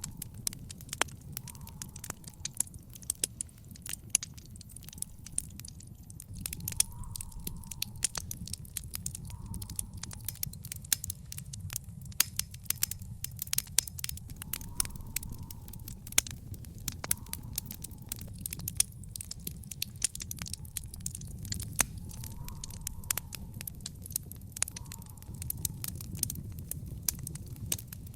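Wood fire in an outdoor fire pit crackling, with frequent sharp pops and snaps over a steady low rumble of the flames.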